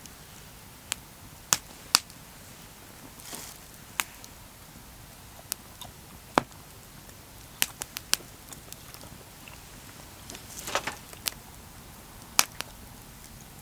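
Wood campfire crackling: about a dozen sharp, irregularly spaced pops over a low background, with two brief hissing flare-ups, one a few seconds in and a louder one near the end.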